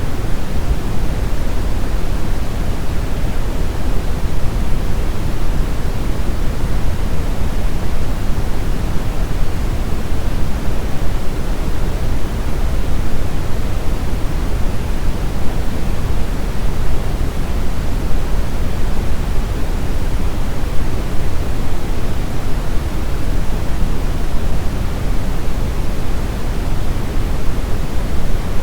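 Brown noise: a steady, even rumbling hiss weighted heavily toward the low end, with no changes or events.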